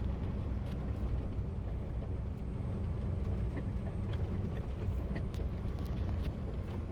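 Gravel-hauling semi truck driving, its engine and tyre noise heard from inside the cab as a steady low rumble.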